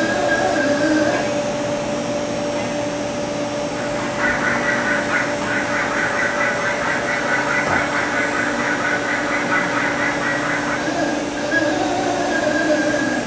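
O-M Neo-16X CNC vertical boring mill running under power: a steady machine hum with several held tones, joined by a rougher, fluttering higher sound from about four seconds in until about eleven seconds.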